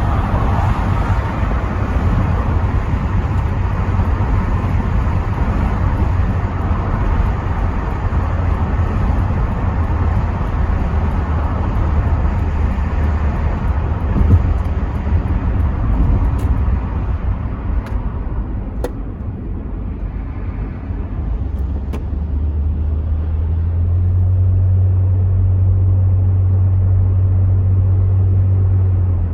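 Cabin sound of a Rover 75 V6 estate on the move: road and wind noise through partly open windows over a low engine rumble. The rushing noise eases after about 18 seconds as the car slows. A steady low engine drone then holds until it cuts off abruptly near the end.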